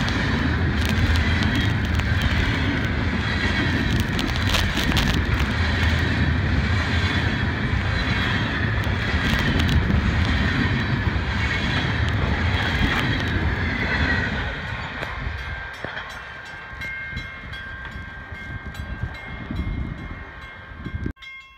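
Freight train of tank cars rolling past at speed: a loud, steady rumble and rattle of wheels on rail. About fourteen seconds in it drops to a much quieter stretch with faint steady tones.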